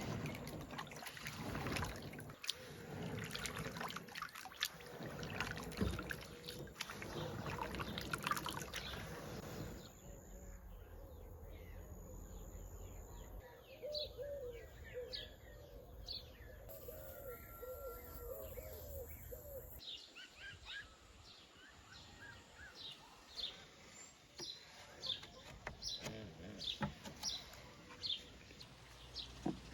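Small birds chirping, short high chirps repeating about once or twice a second through the second half. The first third is a busy, noisy clatter of knocks and rustling.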